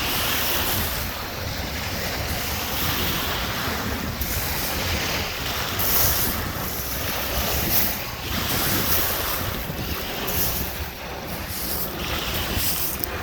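Lake Michigan waves washing onto the beach shore in repeated surges, with wind buffeting the microphone.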